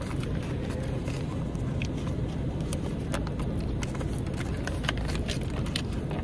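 Steady low rumble of a car, with scattered light clicks and ticks over it.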